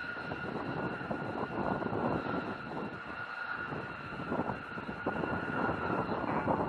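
Jet combat aircraft's engine running: a steady high whine over a rushing noise.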